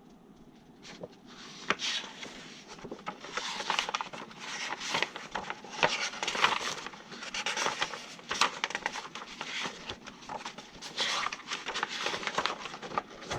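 Irregular close-up rustling and crinkling with many light clicks and taps, starting about a second in: hands handling something.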